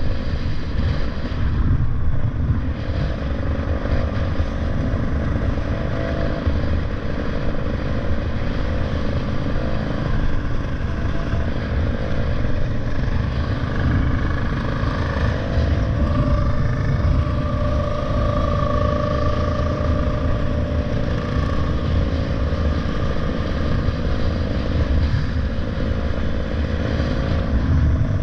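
Motorcycle on the move: wind rushes and buffets over the microphone on top of the engine's steady drone, with a higher whine standing out for a few seconds around the middle.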